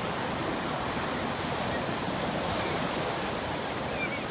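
Sea surf washing ashore as a steady rushing noise.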